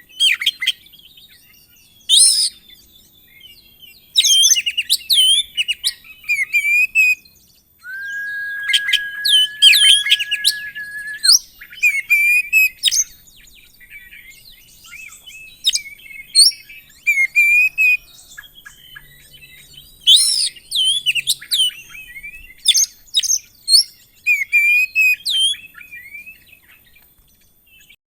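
Oriental magpie-robin (kacer) singing in separate phrases of quick, varied whistles and chirps with short pauses between them. About a third of the way in it holds one long steady whistle for about three seconds.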